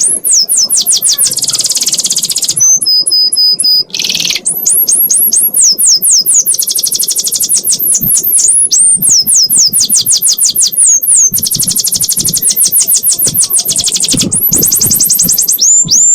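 Canary singing a long, unbroken 'ngekek' song: fast trills of high falling whistles, phrase after phrase at changing speeds, with only a brief pause about four seconds in.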